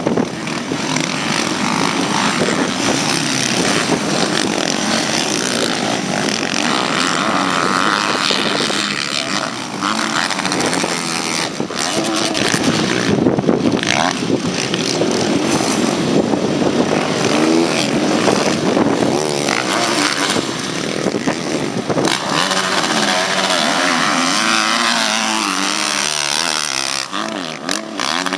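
Motocross bikes racing, their engines revving up and down as they are ridden around the track.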